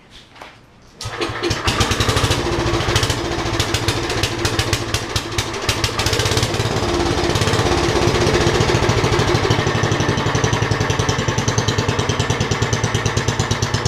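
A Lincoln Weldanpower 150 welder-generator's engine, cold, catches on a rope pull about a second in. It then idles steadily with a fast, even firing beat.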